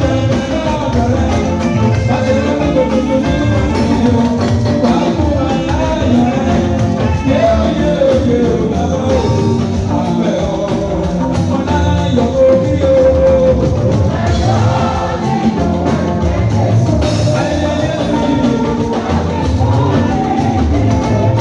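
Choir singing to a band with a steady drum beat.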